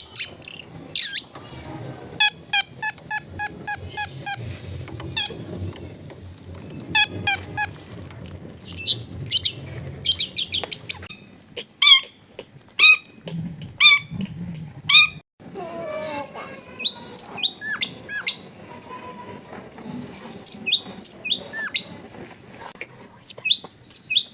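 Long-tailed shrike (cendet) singing a varied song full of mimicked phrases: fast runs of repeated notes, short sharp calls and high thin whistles, with a brief break a little past halfway.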